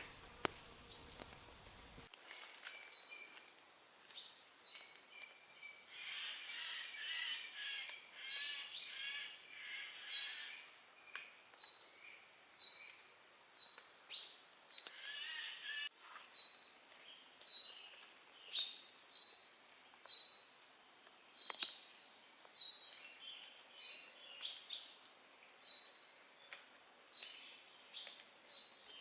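Birds singing: one bird repeats a short high note about once a second, while another gives a rapid warbling song for a few seconds at a time.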